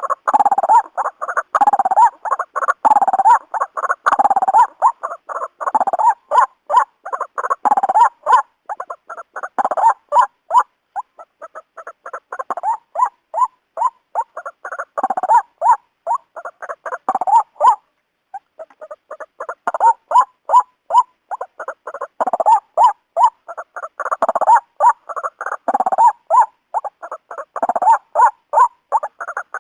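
White-breasted waterhen calling: a long run of loud, rhythmic, repeated notes, a few per second, with a brief pause about two-thirds of the way through.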